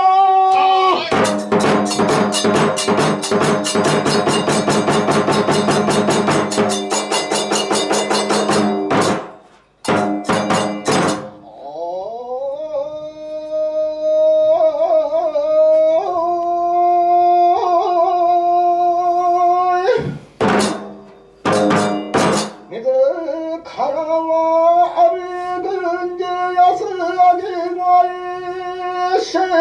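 Kagura accompaniment music. A rapid drum roll runs for several seconds, then a sustained wind melody with ornamented bends comes in, broken by a few sharp drum strikes.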